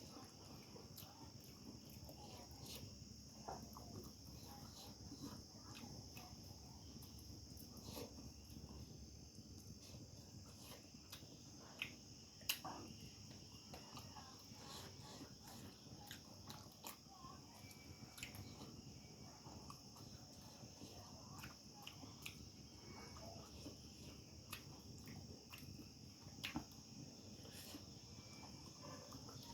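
Faint, steady high chirring of crickets, with scattered soft clicks and taps over it.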